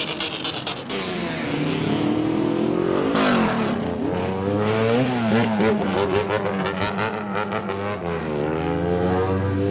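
Custom street-racer car engine being revved, its pitch climbing and dropping several times, with crackling exhaust pops in the first second.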